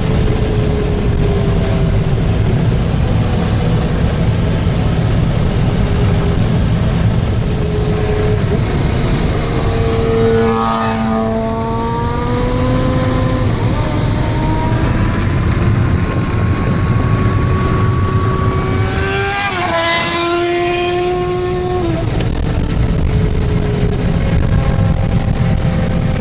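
Suzuki GSX-R 1000's inline-four engine through an aftermarket (non-stock) exhaust, its pitch rising and falling as it is revved and shifted, with a sharp swell about ten seconds in and another near twenty seconds, the second followed by a sudden drop in pitch. A steady heavy road and wind rumble runs underneath.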